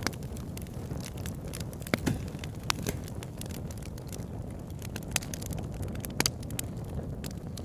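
Wood fire burning in a fireplace: a steady low roar of flames with irregular sharp crackles and pops, a few louder snaps scattered through.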